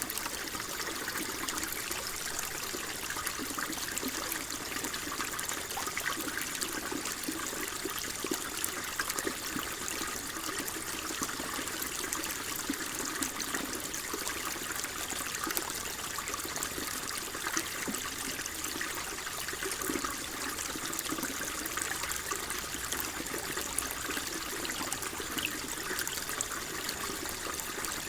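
Water flowing and trickling steadily, an even babbling with small splashes throughout.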